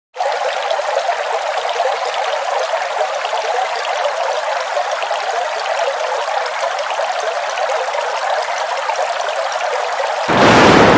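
Waterfall: steady rushing and splashing of falling water. A little after ten seconds in, it suddenly turns louder and deeper.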